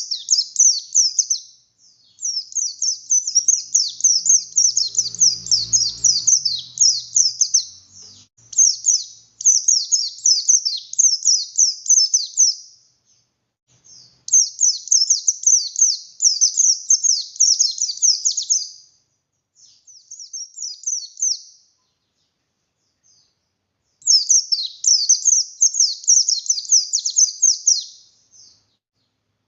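A pleci buxtoni white-eye singing vigorously: rapid, high, chattering song in long runs of several seconds, broken by short pauses. A faint low rumble sounds once, partway through.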